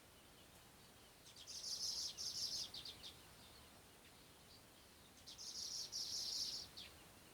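Bird song: two bursts of rapid, high-pitched chattering, each about a second and a half long, the second starting about four seconds after the first.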